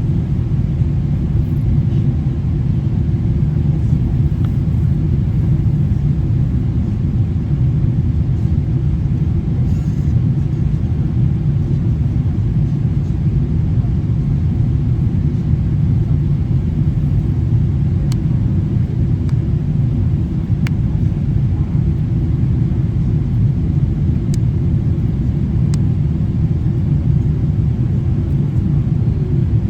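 Steady low cabin rumble of a Boeing 777-300ER airliner in flight, with a few faint clicks in the second half.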